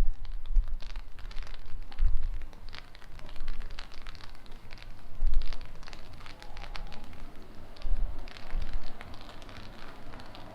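Rain falling, with many close raindrops ticking and crackling on a hard surface, and low thumps now and then on the microphone.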